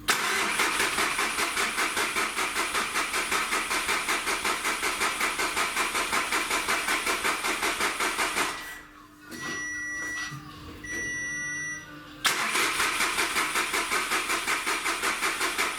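Starter cranking the Skoda Fabia's 1.4 TDI three-cylinder pump-injector diesel after a cylinder-head rebuild, the engine turning over in a steady pulse of about three to four beats a second without firing. About eight seconds in the cranking stops, two high electronic beeps sound, and then the cranking starts again.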